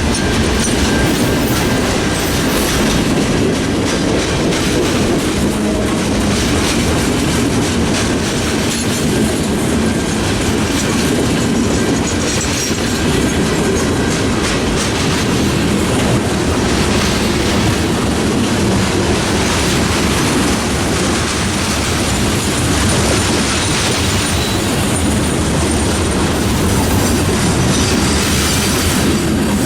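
Freight train cars rolling past, a steady, loud noise of steel wheels on rail that keeps up without a break.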